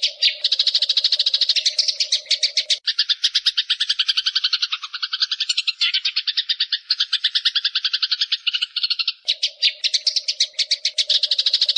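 Eurasian tree sparrows chattering in a fight: a fast, unbroken run of sharp chirps, about ten a second. About 3 s in it shifts to a lower, doubled chatter, and it returns to the higher chirping near 9 s. A faint steady hum lies under the first and last parts.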